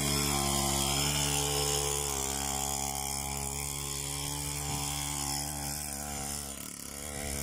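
Small engine of a mini cross bike idling steadily, its pitch wavering slightly, dipping briefly near the end.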